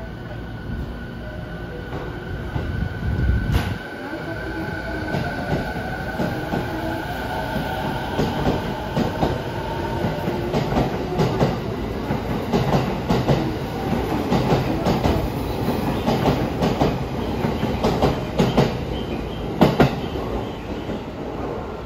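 JR East 209 series 500 electric commuter train pulling away from a platform. The whine of its inverter-driven traction motors rises in pitch as it gathers speed, and from about eight seconds in its wheels click-clack over the rail joints faster and faster as the cars pass close by.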